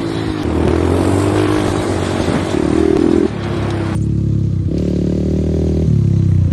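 Motocross bike engine running and revving, mixed with background music; the sound changes abruptly about four seconds in.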